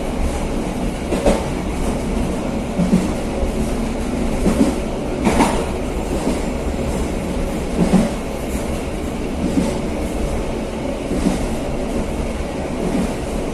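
Passenger train running along the line: a steady rumble of wheels on rail with irregular clacks, one sharper knock about five and a half seconds in.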